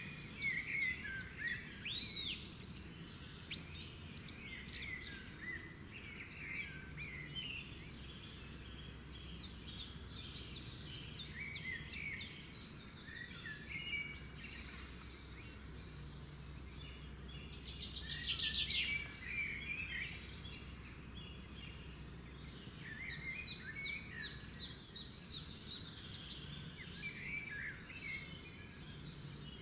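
Birds chirping and singing, many short calls and whistles overlapping, with a louder rapid trill a little past the middle, over a faint low hum.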